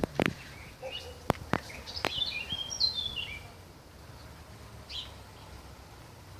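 A songbird sings a short phrase of quick chirped notes that step down in pitch, about two seconds in, with a single short call near the end. Several sharp clicks or knocks come in the first two seconds, louder than the song.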